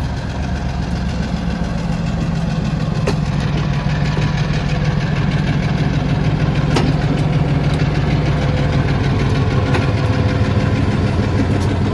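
Diesel locomotive engine running steadily at low throttle, a steady low hum, with a few sharp clicks over it.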